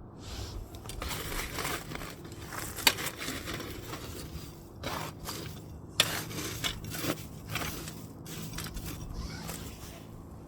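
Burning firewood crackling and popping irregularly, with two sharp pops standing out about three and six seconds in.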